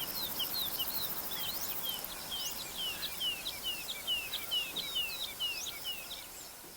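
Small songbirds chirping busily, many short falling chirps several times a second, over a steady outdoor background hiss that fades out near the end.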